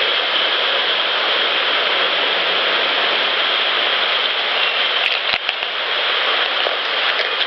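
Steady, loud hiss of outdoor background noise picked up by a left-alone field recorder, with a short cluster of small clicks or taps about five seconds in.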